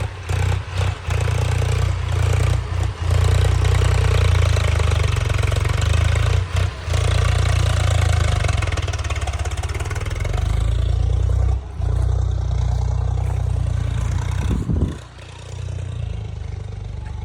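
A vehicle engine running steadily with a heavy low rumble that cuts out briefly several times, getting quieter about fifteen seconds in.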